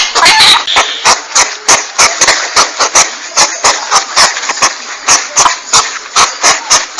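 Hedgehog call played as a hunting lure: a rapid, loud series of short puffing bursts, about three or four a second, with no clear pitch.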